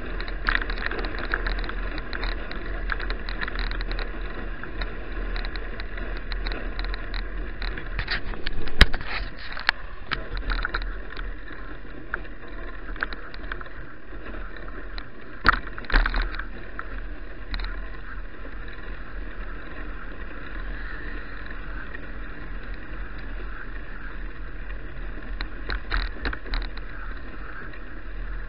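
Steady wind and rolling noise of a bicycle being ridden, picked up by an action camera's microphone. A few sharp knocks and rattles come through, the loudest about 9 and 16 seconds in.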